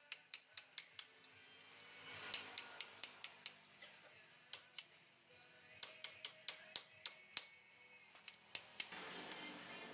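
Short runs of sharp metallic clicks, about five a second, several times over, from hand-tool work on a motorbike's clutch assembly. Near the end a steady hiss rises.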